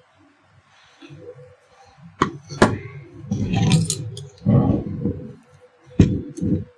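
Metal parts and tools being handled while an electric iron is put back together: sharp metallic clicks about two seconds in, again just after, and once near the end, with rattling and scraping between.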